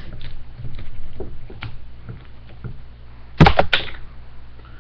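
A plastic 40-ounce malt liquor bottle handled while being drunk from: faint small clicks and knocks, then a loud sharp clatter of several quick knocks about three and a half seconds in.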